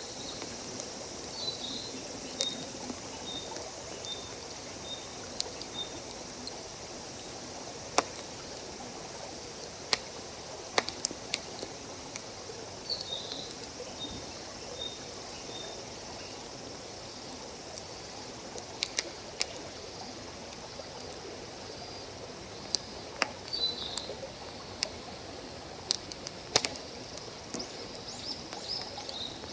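Wood campfire crackling with occasional sharp pops, over the steady rush of a nearby stream, with a bird chirping now and then.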